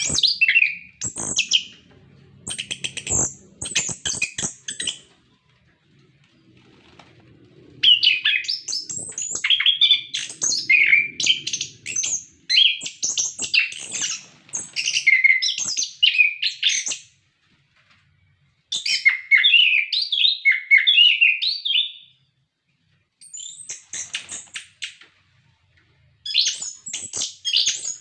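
Chestnut-capped thrush (anis kembang) singing in full voice: a varied song of quick, rapidly changing whistled notes delivered in phrases several seconds long, with short pauses between them.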